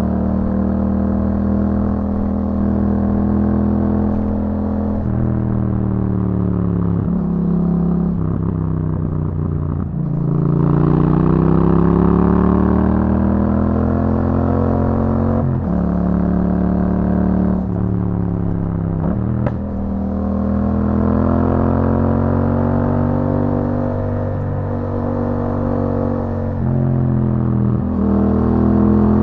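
2021 Yamaha MT-07's parallel-twin engine through an Akrapovic exhaust, under way: its pitch climbs and falls with the throttle, with several short breaks where gears are changed, and it rises again near the end.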